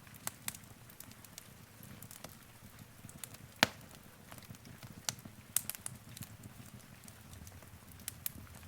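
Wood fire burning in a fireplace: a low, steady rumble of flame with irregular sharp crackles and pops from the burning logs. The loudest pop comes about three and a half seconds in.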